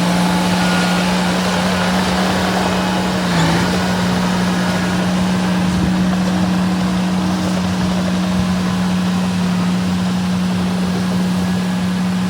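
Diesel engine of a small bulldozer running steadily, with a brief dip in pitch about three and a half seconds in.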